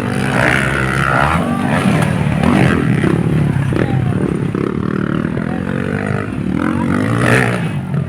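Motocross dirt bike engines racing, revving up and down as the riders work the throttle around the track.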